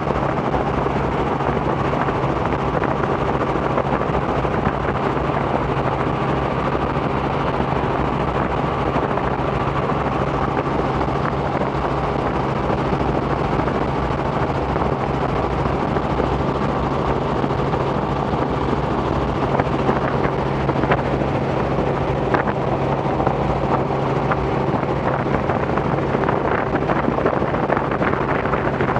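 Robinson R44 helicopter in cruise flight: its six-cylinder Lycoming piston engine and rotors make a steady, unchanging drone.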